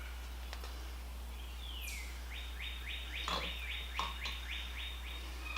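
A bird singing: one falling whistle, then a fast trill of short falling notes, about seven a second, over a steady low hum and a couple of faint knocks.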